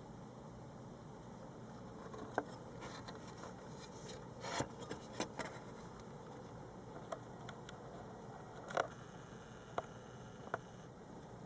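Scattered sharp clicks and light taps, a few bunched together with a short scrape, over a steady hiss.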